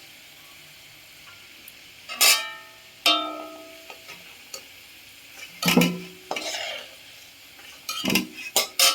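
Metal spatula clanking and scraping against a metal kadai as fried potatoes are lifted out of the hot oil. There are several ringing clanks, over a steady sizzle of frying.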